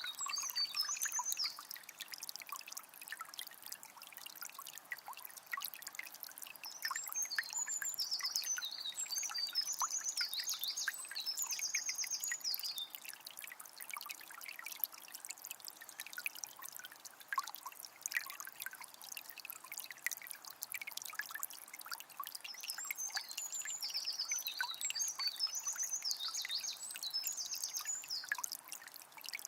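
Water of a small spring trickling and splashing steadily, full of little droplet ticks. A songbird sings bursts of high, quick chirping phrases three times: at the very start, for several seconds about a quarter of the way in, and again near the end.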